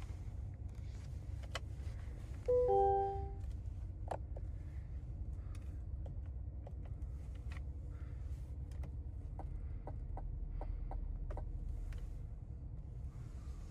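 Steady low road rumble inside the cabin of a 2024 Cadillac Escalade ESV on the move, with faint scattered clicks and ticks. About two and a half seconds in, a short two-note chime sounds, falling in pitch, and it is the loudest thing heard.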